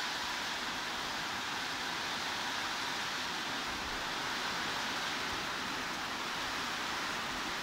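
Steady heavy rain, an even hiss that does not change, with no single drops or other sounds standing out.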